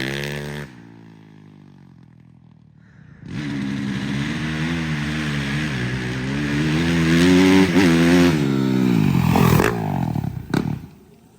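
Dirt bike engine. It fades out over the first second, then about three seconds in it comes on hard and revs through a launch, its pitch climbing and dipping, before dropping away near the end.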